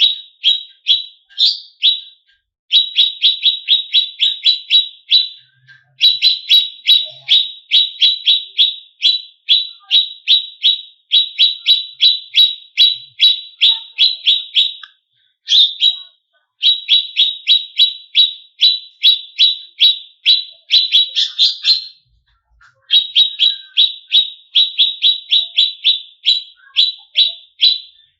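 Cucak cungkok songbird calling in long runs of sharp, rapidly repeated chirps, about five a second, broken by short pauses. This is an agitated song used as a lure (pancingan) to rouse competition birds.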